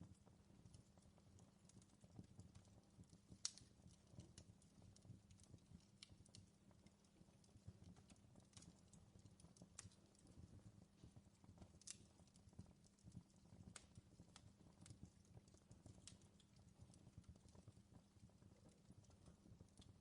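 Faint crackling of a fireplace fire: a low steady rumble with irregular sharp pops and snaps, the loudest about three and a half seconds in.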